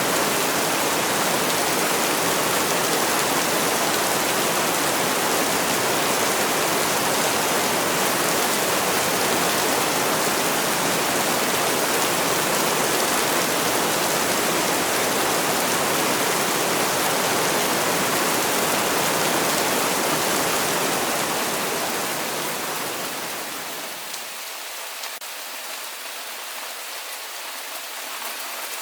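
Heavy rain hissing steadily, a dense rush of water. About three-quarters of the way through it fades down over a few seconds to lighter, thinner rain in which separate drops can be picked out.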